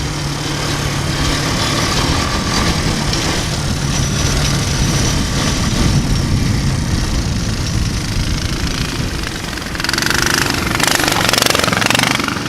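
Single-cylinder engine of a 420cc mini bike trike running steadily under throttle. A louder, noisy rush comes in for about two seconds near the end.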